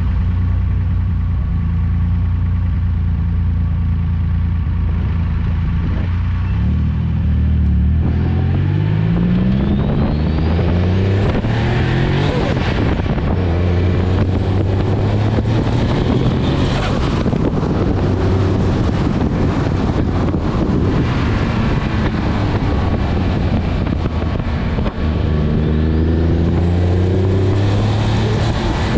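Twin-turbo Nissan 350Z V6 engine running steadily, then pulling hard through the gears several times, its pitch climbing with each run, with a high whine rising alongside.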